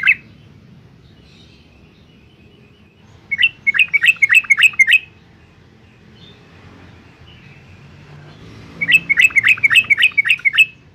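Yellow-vented bulbul giving two bursts of rapid, repeated chattering notes, each lasting about two seconds, with a pause of a few seconds between them.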